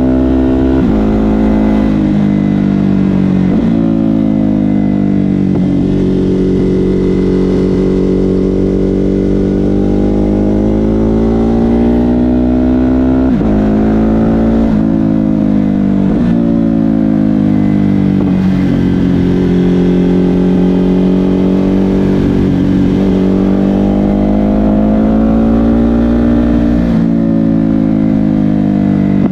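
Ducati Hypermotard 950 SP's 937 cc L-twin through an aftermarket SC-Project exhaust, under way on the motorcycle: the engine note climbs and then drops sharply several times at gear changes, with longer stretches where it swells and eases back as the throttle is rolled on and off.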